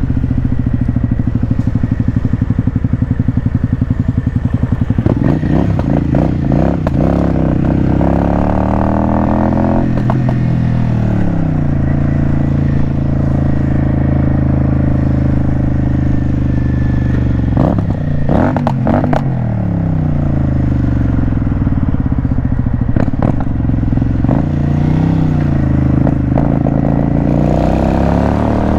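Motorcycle engine running under way, its pitch rising and falling several times with throttle and gear changes, with a few brief clattering knocks about two-thirds of the way through.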